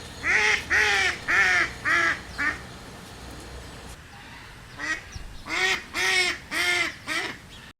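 Duck quacking: a run of about five quacks, a pause of a couple of seconds, then another run of about five.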